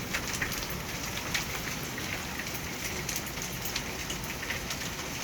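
Rain and hail falling hard: a steady hiss with scattered sharp ticks of hailstones striking.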